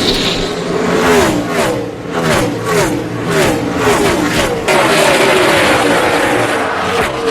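NASCAR Cup cars' V8 engines at racing speed, loud, with the engine pitch sweeping down again and again as cars go by. About four and a half seconds in, the sound changes abruptly to a steadier, denser engine roar.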